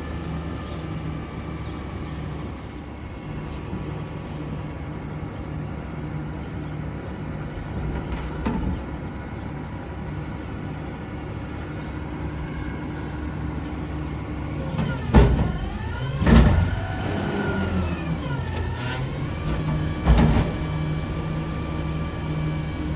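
Peterbilt 520 front-loader garbage truck's engine running steadily, then revving with its pitch falling and rising for a few seconds. Two loud metal bangs about a second apart come two-thirds of the way through, and a third follows about four seconds later.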